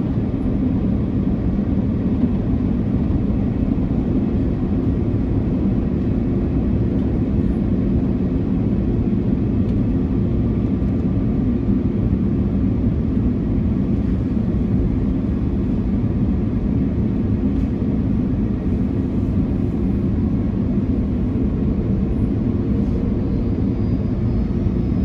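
Steady cabin roar of an Airbus A330-300 airliner, from its Rolls-Royce Trent 700 engines and the airflow over the fuselage, heard from a seat during the descent for landing. The rumble is deep and even, with faint steady hums in it.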